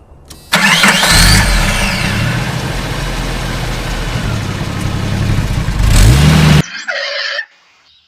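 A car engine starting and running, rising in pitch as it revs up near the end, then cutting off suddenly.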